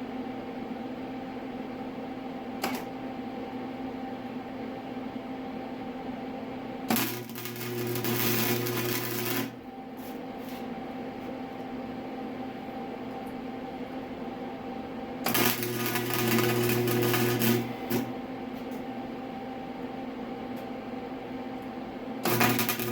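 Electric welding arc struck in short runs of about two and a half seconds, a crackling buzz, while the inside weld of a motorcycle exhaust flange is laid. The runs come about seven seconds in, about fifteen seconds in and again near the end, over the welding machine's steady hum.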